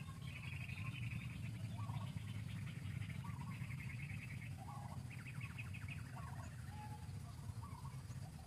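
Outdoor birdsong: several rapid trills of quick repeated notes and short chirps about once a second, over a steady low rumble.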